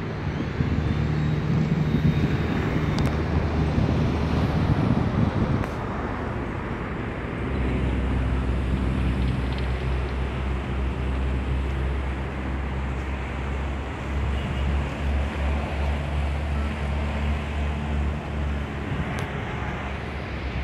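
An engine running steadily with a low drone and a rushing noise over it; its low pitch changes about seven seconds in.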